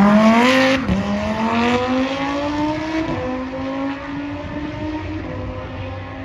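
Car engine accelerating hard, its pitch climbing and dropping at two upshifts, about one and three seconds in, the sound fading as the car pulls away.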